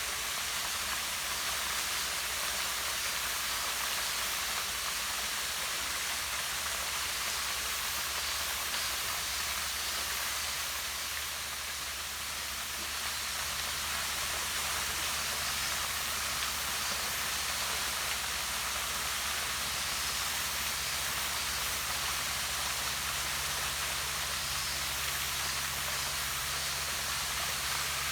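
Waterfall pouring down rock into a pond: a steady, even rush of falling water.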